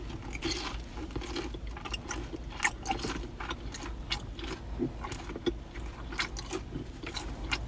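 Close-up chewing of crispy breaded, fried cheese sticks: many short, irregular crunches and mouth clicks over a low steady hum.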